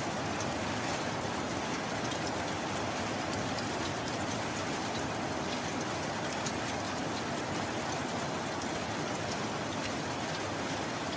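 Steady heavy rain: an even hiss of rainfall with many small drop ticks scattered through it.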